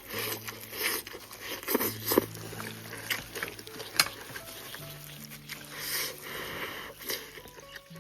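Background music with long held low notes, over intermittent close-up eating sounds: short smacking and chewing noises as soft stewed cow trotters are eaten.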